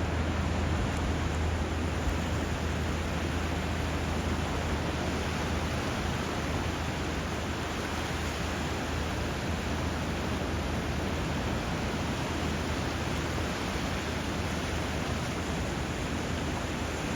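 Steady rushing of water at a river mouth, the river flow and surf blending into an even hiss, with a low rumble underneath that fades away near the end.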